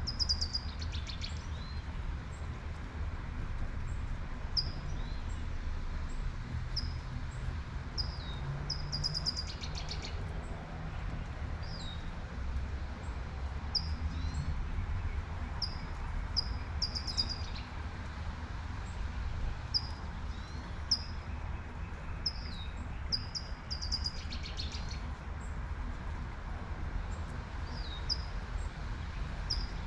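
Songbirds chirping: short high chirps repeated about every second, with a few brief fast trills, over a steady low rumble and the faint hiss of light rain.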